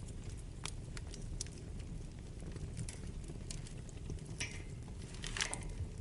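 Wood fire burning in a fireplace: a steady low rumble of flames with scattered sharp crackles and pops. The crackling grows denser and louder in the last couple of seconds.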